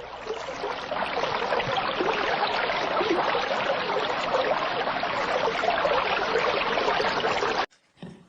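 Running water splashing and trickling in a steady, dense rush that fades in and then cuts off abruptly near the end.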